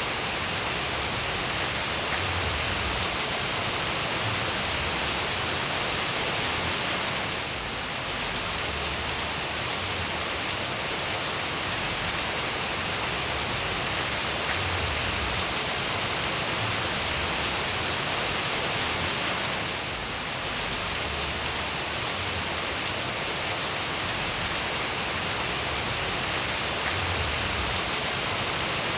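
Steady rain falling, an even hiss with scattered individual drops ticking through it. It softens briefly twice, about a third of the way in and again about two thirds in.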